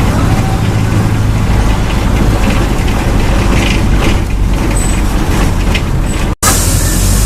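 Mercedes-Benz OF-1722M bus engine running steadily, with a few short clicks and hisses over it. The sound drops out abruptly for a moment about six seconds in.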